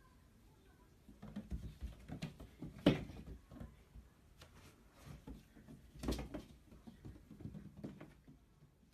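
Irregular light knocks, taps and rustling, with sharper knocks about three seconds in and again about six seconds in.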